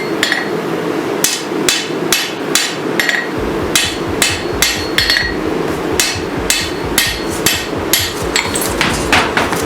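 Steel hammer blows ringing on hot sword steel over an anvil, in a steady rhythm of about two to three strikes a second, over a continuous rushing noise.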